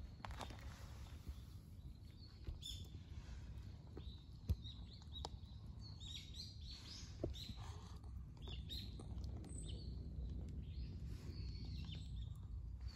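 Small birds chirping in short calls, busiest around the middle and again near the end, over a low steady rumble. A few faint clicks come from a cat crunching dry kibble.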